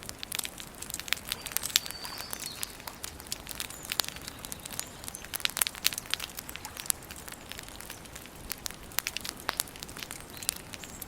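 Wood campfire crackling, with many irregular sharp pops and snaps over a soft hiss.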